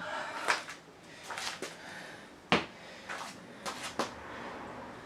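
A handful of sharp, irregular knocks and clatters, as of hard objects being handled and set down, the loudest about two and a half seconds in.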